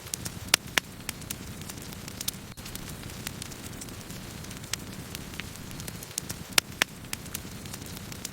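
Campfire burning steadily, with a low rumble of flames and irregular sharp crackles and pops of burning wood; the loudest pops come in pairs about half a second in and again near the end.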